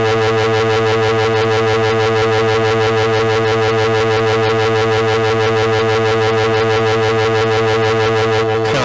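A loud, steady synthetic buzzing tone held at one low pitch for about nine seconds. It starts abruptly and cuts off suddenly.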